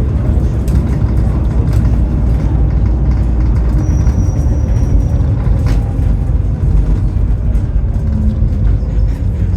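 Scania double-decker bus engine and drivetrain running with a steady, heavy low rumble. There is a brief high whine about four seconds in, and the engine note sinks slowly through the second half.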